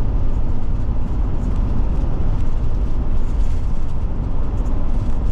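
Steady road and engine rumble inside the cab of a moving Forest River Forester Class C motorhome.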